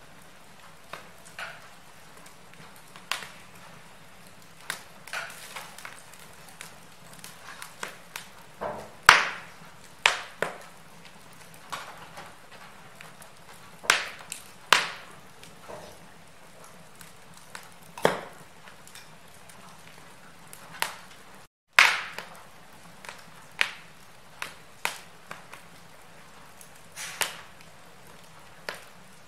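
Wood fire crackling in a fireplace: irregular sharp pops and snaps, some much louder than others, over a faint steady hiss. The sound drops out completely for a split second about two-thirds of the way through.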